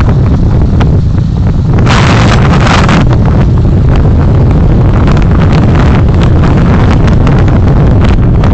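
Heavy low rumble of a car driving, with wind noise on the dashcam's microphone. About two seconds in, a loud hiss lasts about a second, and short ticks and knocks come scattered through the second half.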